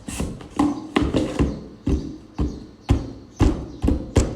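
Hands thumping and tapping on a corrugated cardboard mailer box, a dozen or so irregular knocks, to show how strong the box is.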